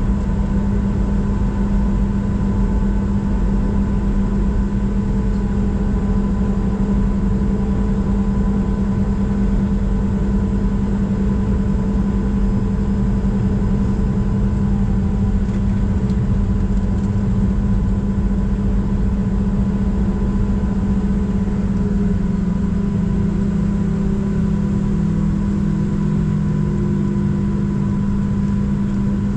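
Boeing 737-700's CFM56-7B turbofan engines at takeoff power, heard from inside the cabin. It is a loud, steady engine noise with a low drone and thin high whines, and a fainter tone slowly drops in pitch in the second half.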